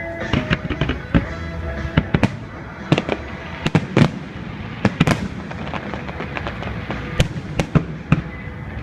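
Fireworks display going off: a rapid, irregular string of sharp bangs and crackling bursts, several a second, with music playing underneath.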